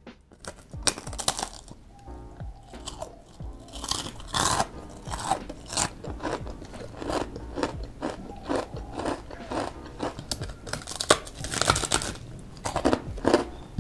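Close-up biting and chewing of crispy battered fried tempeh: a continual run of crunches, with louder crunching bites now and then.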